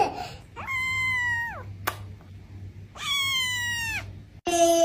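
A cat meowing twice, two long drawn-out meows of about a second each, each dropping in pitch at the end.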